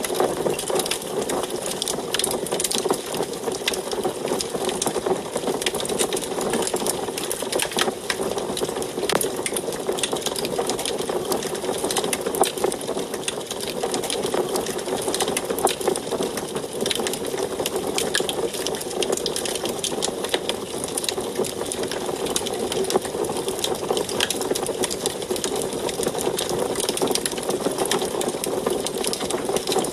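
Wood fire crackling in an antique wood stove: a dense run of quick, irregular crackles and pops over a steady rush of burning.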